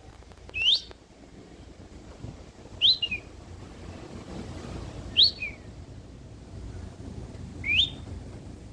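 Four loud whistled bird-like calls, about two to two and a half seconds apart. Each sweeps up sharply in pitch, and some end with a short drop.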